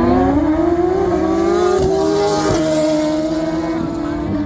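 Performance vehicle engine accelerating: its pitch climbs for about two and a half seconds, drops at a gear change, then holds steady.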